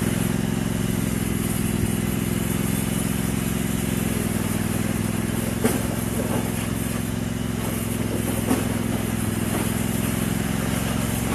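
Riding lawn tractor engine running steadily, with two short sharp knocks partway through.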